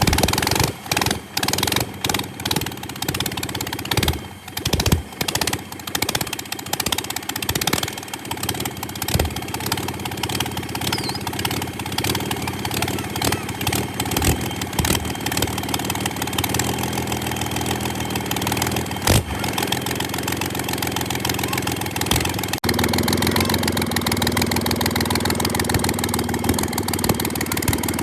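Freshly rebuilt diesel engine of a Komatsu D85-21 bulldozer running. It is uneven and sputtering for the first several seconds, then settles into a steady idle. A little over twenty seconds in, its note steps up and gets louder.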